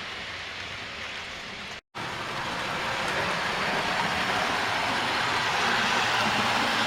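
Model trains running on the layout's track, a steady rushing rumble of wheels on rail. It cuts out sharply for a moment just under two seconds in, then comes back louder.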